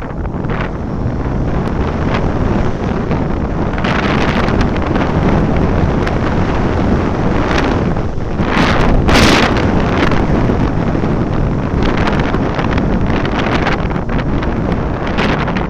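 Wind rushing over the microphone of a moving vehicle, with engine and road rumble underneath. It swells in gusts, loudest about eight to nine seconds in.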